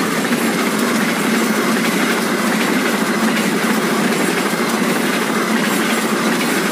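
Passenger train's coaches passing close without stopping: a steady, loud noise of steel wheels running on the rails.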